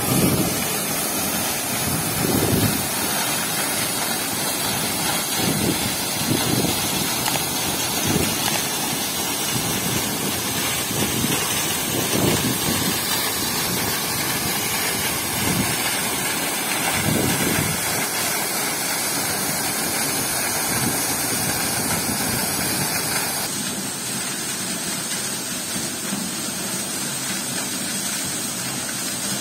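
Steady outdoor rushing noise with a few low buffeting gusts, like wind on the microphone; its character changes suddenly about 23 seconds in.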